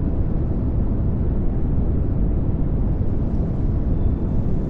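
Steady pink noise: an even, unchanging rushing hiss, strongest in the low end.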